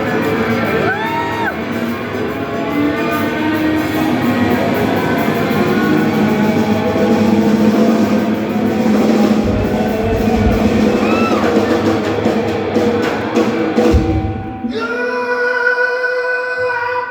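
Live rock band playing in a large hall: singing over drum kit and electric guitar, with a few high rising-and-falling whistles near the start. About fourteen seconds in, a heavy drum hit ends the full band, leaving a held, ringing chord.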